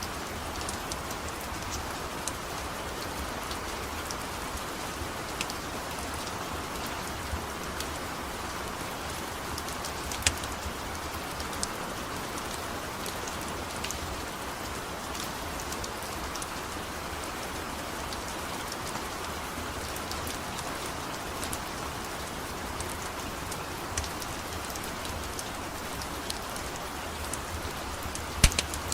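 Steady rain falling, with scattered sharp clicks throughout, the loudest about ten seconds in and again near the end.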